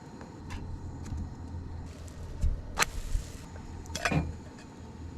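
A vehicle engine running with a steady low hum, with a few sharp clicks and clunks, the loudest about halfway through and another pair a second later.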